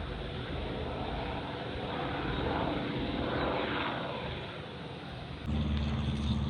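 Airplane flying over, a steady noise that swells and fades in slow waves. About five and a half seconds in, the sound changes suddenly to a steadier, louder low hum.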